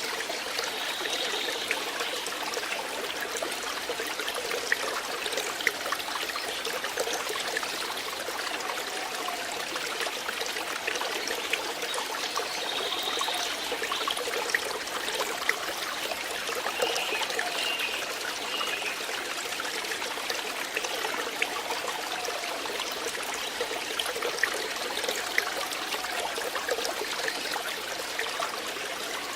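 Water flowing steadily in a small stream, trickling with many tiny splashes.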